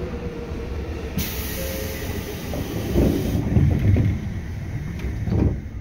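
Seibu 2000 series electric train running on the rails: a steady low rumble, with a high hiss from about a second in lasting about two seconds, and heavier thumps around the middle and again just before the end.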